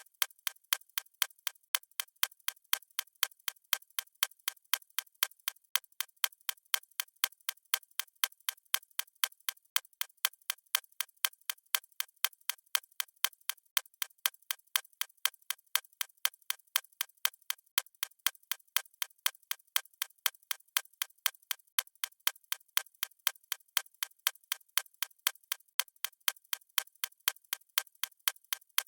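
Clock ticking at a steady, even rate of a few thin, sharp ticks a second.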